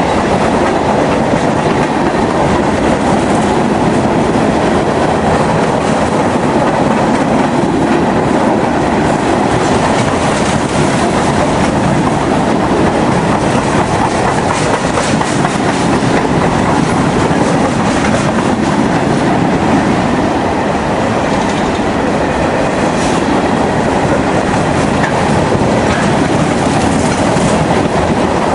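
Freight train of covered hopper cars rolling steadily past, a loud continuous noise of steel wheels running on the rails.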